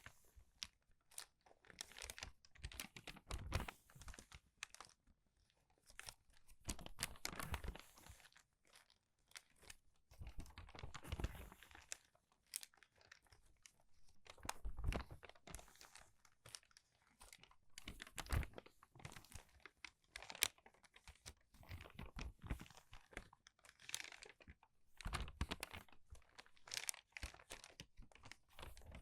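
Crinkled, crumpled paper pages turned quickly one after another. Each turn is a crackling rustle, and they come about one every one to two seconds.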